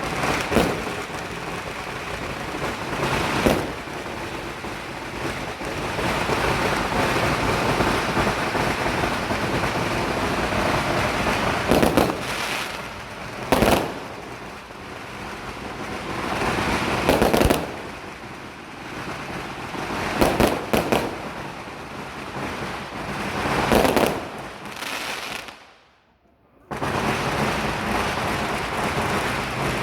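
Fireworks and firecrackers going off: dense, continuous crackling with loud bangs every few seconds. It drops away to near silence for about a second near the end, then a steady noise picks up again.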